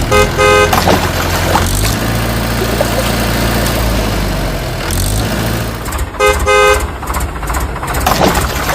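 A vehicle horn beeps twice in quick succession at the start and again about six seconds in, over a steady low engine rumble, as cartoon sound effects.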